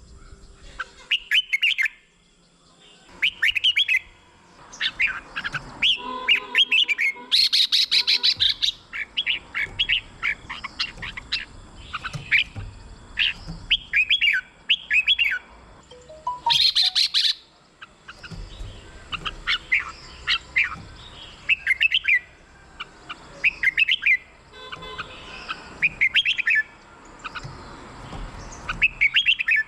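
Red-whiskered bulbuls singing: short, quick phrases of chirpy whistled notes repeated every second or two, with two harsher, noisier calls about seven and seventeen seconds in.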